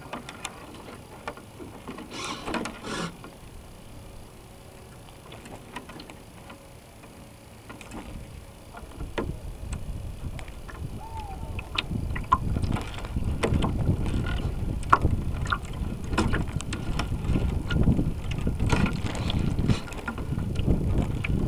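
Water splashing and wind buffeting the onboard camera of a North Wind 360 radio-controlled sailboat under way, with scattered clicks and crackles. The rushing grows louder from about eight seconds in.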